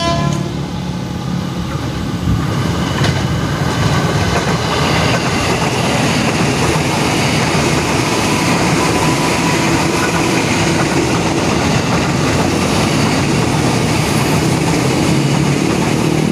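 A KRL Commuter Line electric train passing close by: a steady rumble and rattle of its wheels running on the rails, with a few clicks of the wheels over the rail joints.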